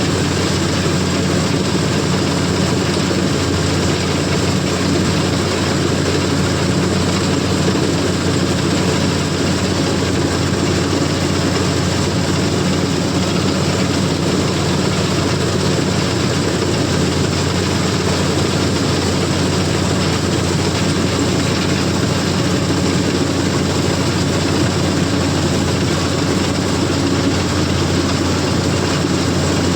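CLAAS combine harvester running steadily under load while cutting paddy: a constant engine drone with the whirr and rattle of its machinery.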